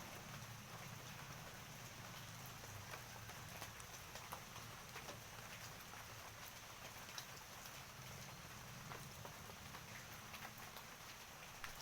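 Faint steady rain, with scattered drops ticking sharply on a hard surface.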